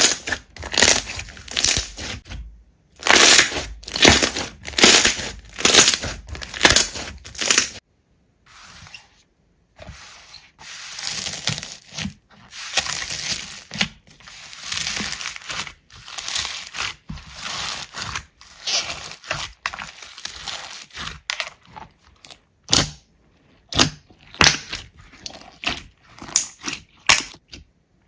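Hands squeezing and pressing slime in repeated short strokes. There is a pause about eight seconds in, then a longer stretch of continuous working, and separate sharp pokes near the end.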